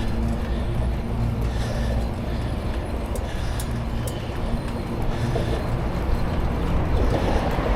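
Wind rushing over the microphone of a bicycle in motion, with tyre and road noise and a steady low hum underneath.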